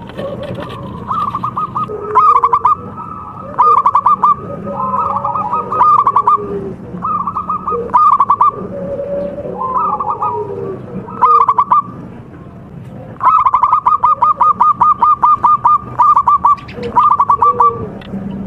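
Zebra doves (perkutut) singing: repeated bursts of rapid, pulsed high coos, with lower, softer gliding coos weaving between them.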